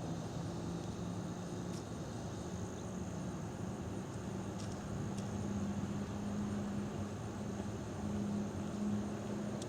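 Low steady engine hum of a vehicle idling, swelling and easing a little, with a faint high steady tone above it.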